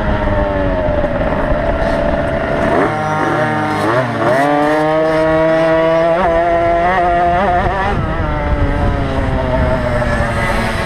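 Small two-stroke mini motocross bikes racing, their engines revving up and down. About four seconds in, a second bike's rising note crosses the first, which then climbs steadily with quick throttle blips.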